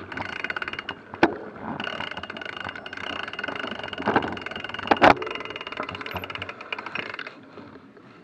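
Bicycle freehubs ticking in rapid ratchet buzzes as several mountain bikes are wheeled and coasted, with a couple of sharp knocks about a second in and again around five seconds.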